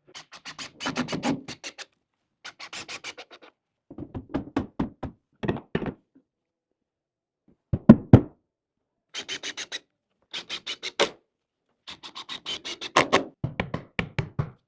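Rapid knocking and tapping on wood during work on a prehung door in its frame. It comes in short separate bursts with dead silence between them, and two loud knocks stand out about eight seconds in.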